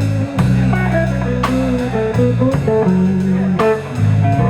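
Slow blues band playing between sung lines: electric guitar fills with bent notes over bass and drums.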